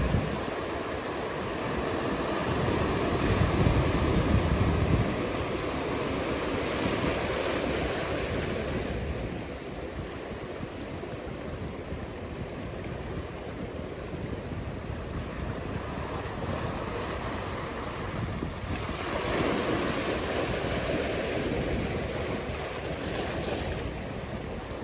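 Ocean surf breaking and washing in, a steady hiss of water that swells louder twice, about three seconds in and again near the end, with wind across the microphone.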